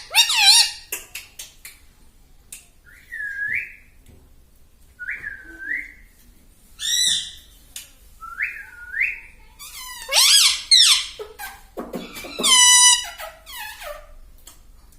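Pet ringneck parrot calling: soft short whistles that dip and rise, between louder calls that sweep up and down in pitch, several times over.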